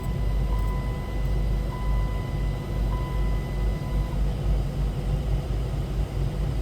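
2008 Dodge Caliber's engine idling steadily just after starting, heard from inside the car as a low rumble. A steady high tone sounds with it and stops about four seconds in.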